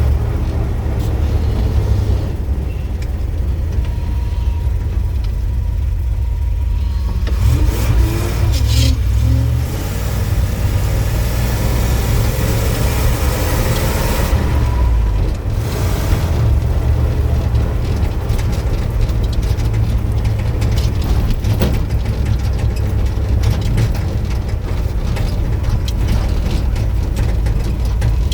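Engine of a 1973 Ford truck running with a deep rumble, its revs rising and falling a couple of times.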